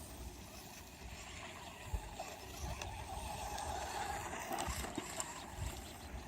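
HSP 94111 RC monster truck driving through snow, its electric motor running with a wavering, uneven whine and a few faint knocks.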